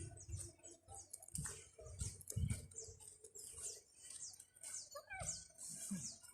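Small birds chirping: many short, high notes falling in pitch, several a second, over scattered soft low thumps.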